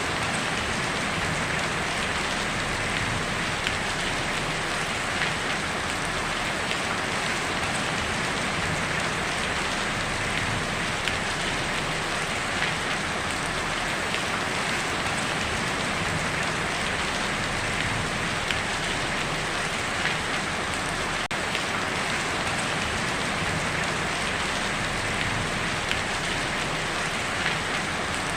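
Steady heavy rain drumming on a tin roof, a dense even patter with small scattered drop ticks.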